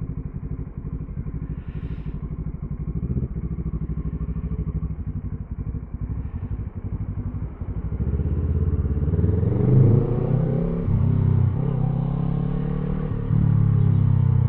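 2014 Kawasaki ER-6N's 650 cc parallel-twin engine, breathing through a gutted exhaust, running under way. The revs rise about two-thirds of the way in, and it runs louder near the end.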